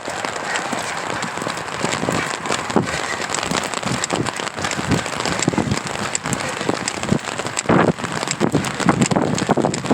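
Rain pattering on an umbrella, with irregular clicking from the camera tripod's loose legs tapping against each other.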